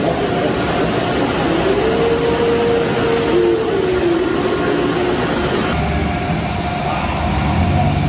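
Automatic car wash machinery running: a loud, steady rush of water spray and blowers, with a held, slightly wavering tone from about two to four seconds in.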